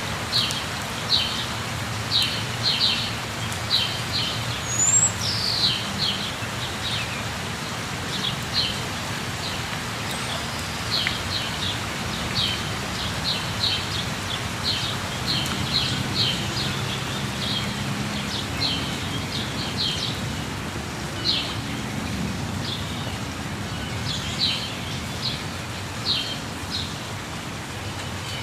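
Steady rush of a waterfall with birds chirping repeatedly over it in short, high calls, and a single rising whistle about five seconds in.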